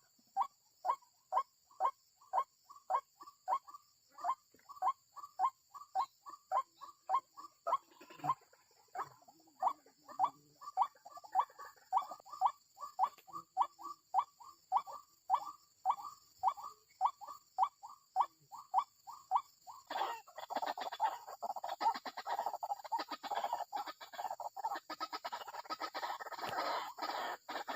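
White-breasted waterhen calls: a steady, monotonous run of short "ruak" notes, about two to three a second, turning about twenty seconds in into a denser, harsher jumble of overlapping calls.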